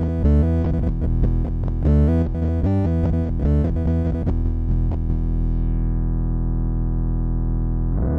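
Electric bass played through a Dunlop MXR MB301 Bass Synth pedal, giving a synth-like tone: a quick run of notes, then one note held for about three seconds as its bright top fades away, and a fresh note struck near the end.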